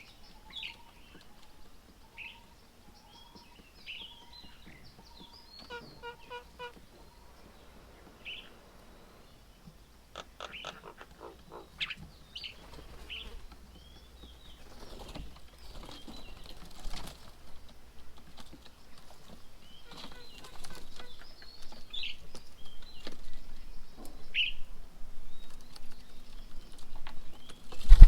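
Several birds at a garden bird table calling in short, scattered chirps and squawks, with a quick rattling run of notes about ten seconds in. A low rumble builds through the second half.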